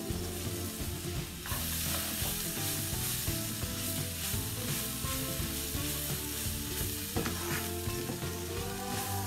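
Shredded cabbage stir-frying in a wok: steady sizzling, with the scrape and rustle of a wooden spatula tossing the cabbage against the pan. The sizzle gets louder about one and a half seconds in.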